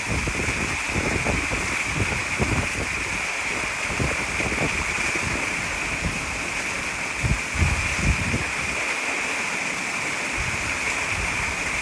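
Waterfall pouring into a pool: a steady rush of falling water, with irregular low thumps and rumbles close to the microphone, the loudest a little past halfway.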